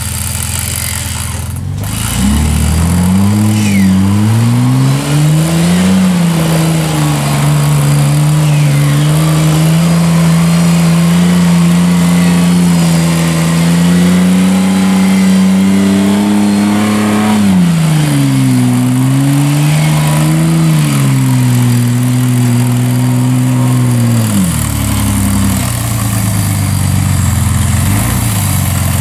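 Off-road Jeep's engine revving hard and held high under load while the vehicle claws up a steep muddy slope. The pitch wavers, sags and climbs again, then falls and cuts off a few seconds before the end.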